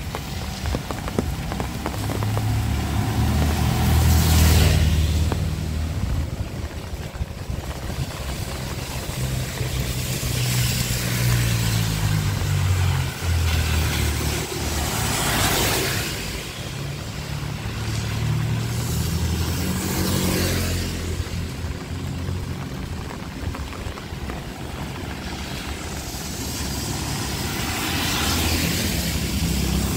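Motor vehicles passing on a road in heavy rain: a low engine rumble under steady rain, with a swell of noise each time a vehicle goes by, about five times.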